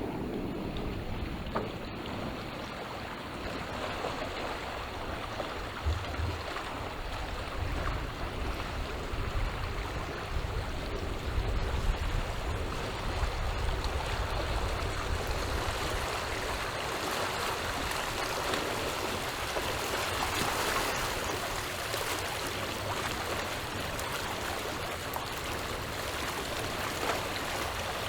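Small sea waves washing and lapping against the shore in a continuous wash that swells and falls, with low gusts of wind buffeting the microphone.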